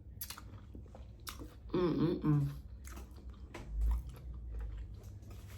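A person chewing food close to the microphone, with repeated wet mouth clicks and smacks. A short vocal murmur comes about two seconds in, and a low thump near four seconds.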